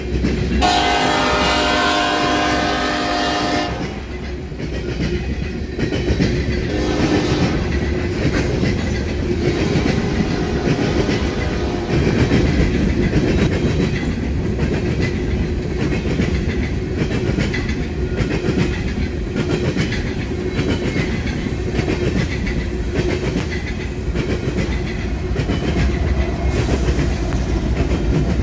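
A freight train passes. Its locomotive horn sounds a chord for about three seconds, then gives a shorter blast a few seconds later. After that the wheels roll steadily past, clacking over the rail joints.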